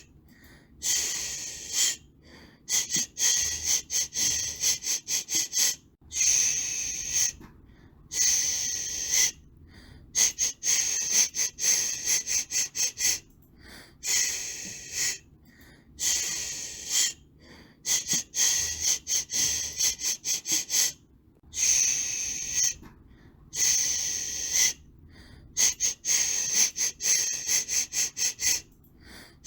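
Baby-soothing white noise, a shush-like hiss that comes in rhythmic bursts of about a second with short gaps, broken up here and there by runs of quick short pulses.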